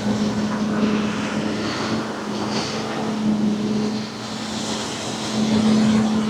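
A steady machine hum holding one constant low tone, over an even background hiss.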